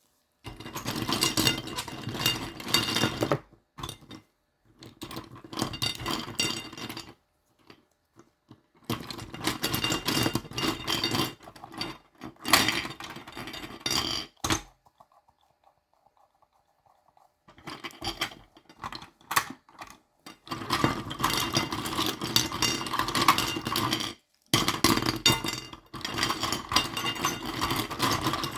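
Small collectible toys being handled: bouts of rapid clinking and rattling of little hard pieces, separated by short pauses, with a quieter stretch in the middle.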